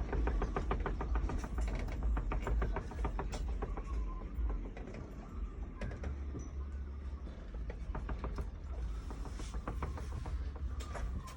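Wind buffeting the microphone with a steady low rumble, over a rapid rattling of clicks in the first few seconds and a few sharp knocks later on.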